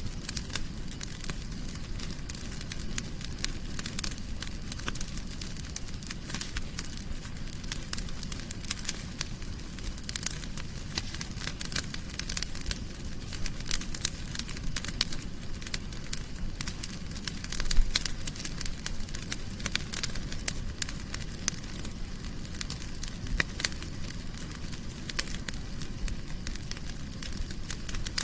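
Wood fire burning in a fireplace: a steady low rumble under constant irregular crackles and pops, with one louder pop about eighteen seconds in.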